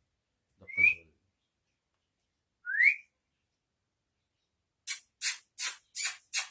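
Indian ringneck parakeets: two short whistles gliding upward, then a quick run of about five shrill, piercing calls.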